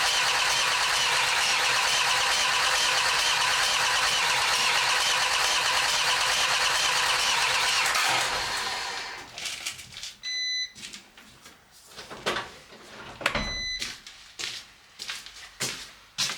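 Starter motor cranking the swapped engine in the Peugeot Expert steadily for about eight seconds without it catching, then stopping. The engine fails to start; the immobiliser is still fitted. Afterwards come a few knocks and two short electronic beeps.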